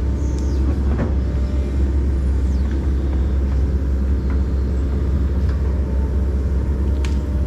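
Kobelco SK140 excavator's diesel engine running steadily, a deep even drone, with a few faint knocks about a second in and near the end.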